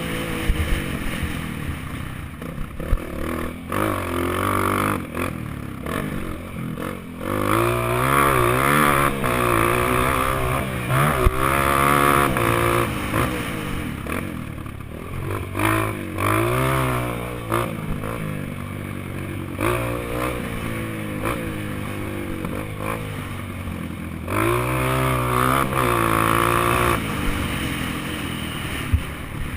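Honda CRF230 dirt bike's single-cylinder four-stroke engine, revving up and easing off over and over as it is ridden around a track, with scattered knocks and rattles.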